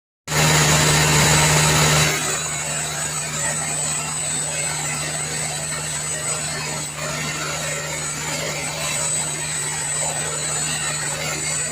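Stick (SMAW) welding arc crackling and sizzling steadily during a horizontal root pass. It starts abruptly just after the beginning, is loudest for the first two seconds, then settles, with a steady low hum underneath.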